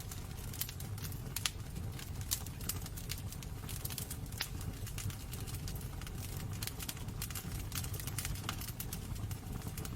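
Wood fire burning in a fireplace: a steady low rumble of flames with irregular crackles and pops.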